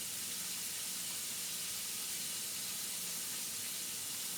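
Food frying in hot oil in a pan: a steady, even sizzle.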